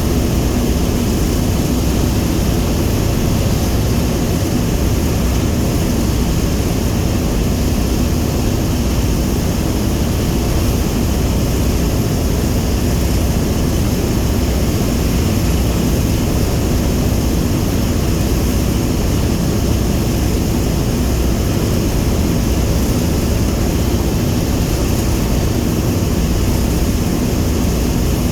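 Boeing B-17G Flying Fortress's four Wright R-1820 Cyclone radial engines running with a loud, steady drone.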